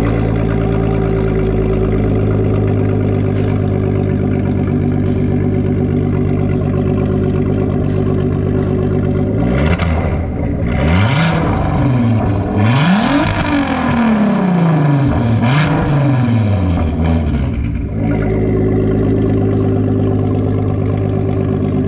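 Turbocharged 3.2-litre VR6 of a 2004 VW R32 with a straight-pipe exhaust, idling loudly just after a cold start. About ten seconds in it is revved up and down several times, then it settles back to a steady idle for the last few seconds.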